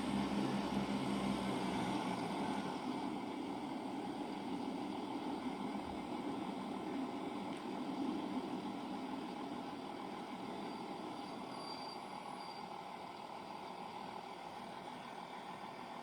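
Great Western Railway Class 166 diesel multiple unit running into the station, a steady engine and wheel rumble that fades gradually.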